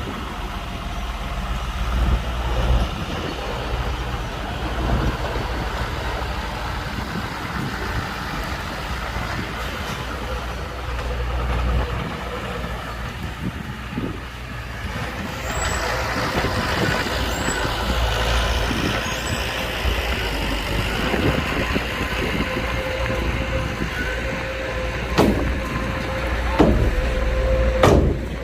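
Heavy diesel earthmoving machinery running: a steady low engine rumble, with a steady whine joining about halfway through and a few sharp knocks and clanks near the end.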